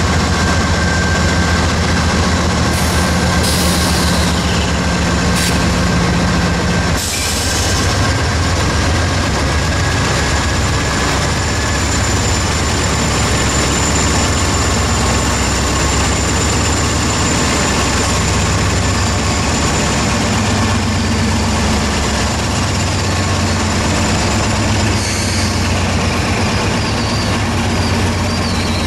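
A Norfolk Southern freight train passing at close range. Its diesel locomotives run by with a steady engine drone that cuts off about seven seconds in, then gondola cars roll past with a continuous heavy rumble of steel wheels on rail.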